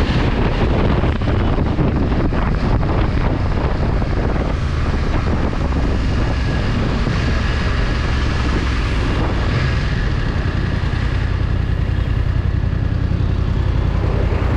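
Motorcycle riding along the road with heavy wind buffeting on the microphone: a steady low rumble of engine and wind.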